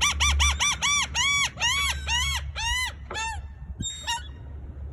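A gull giving a long call: a quick series of loud, arched cries that slow down and fade out over about three seconds.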